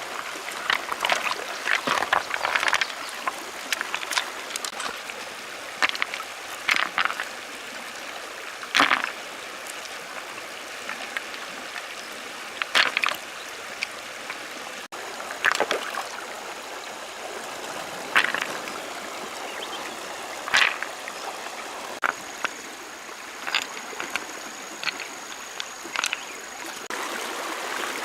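Shallow stream running steadily, with irregular splashes and knocks every second or two as stones are stacked in the water.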